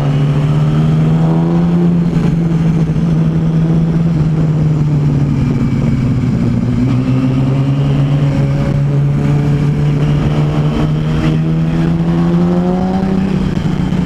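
Vehicle engine under way at steady cruise, its note sagging slightly, climbing slowly as it accelerates, then dropping near the end as the throttle eases, over road noise.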